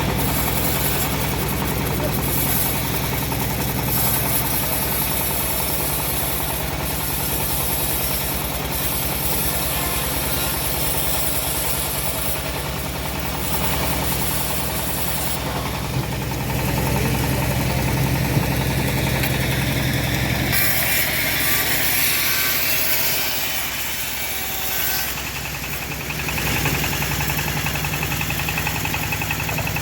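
Engine-driven homemade bandsaw sawmill running steadily, a low engine hum under a loud hiss from the blade. The low hum drops away about twenty seconds in and comes back about six seconds later.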